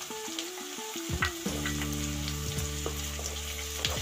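Chopped onions, green capsicum and tomato frying in oil in a pan, with a soft sizzle and the scattered taps and scrapes of a wooden spatula stirring them.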